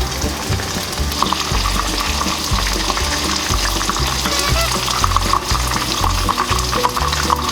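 Karaage chicken pieces crackling as they deep-fry in hot oil, over background music with a steady beat.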